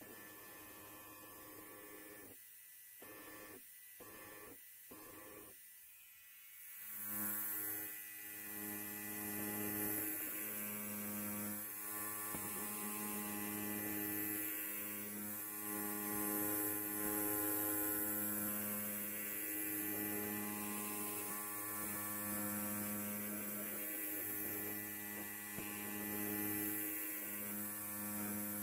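Electric hair clipper buzzing steadily, with a faint hiss on top. It is fainter and uneven for the first several seconds and gets louder about seven seconds in.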